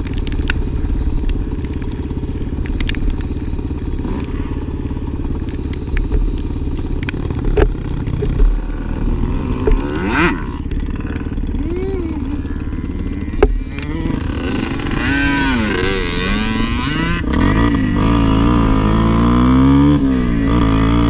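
Motorcycle engine running, its pitch rising and falling as the throttle opens and closes, with a few sharp knocks along the way. It runs louder and steadier near the end.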